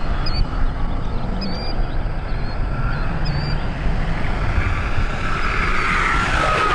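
Giant RC model jet's engines whining on a fly-by: the whine grows louder and rises in pitch over the last few seconds, peaks near the end and starts to fall as the plane passes, over steady wind noise on the microphone.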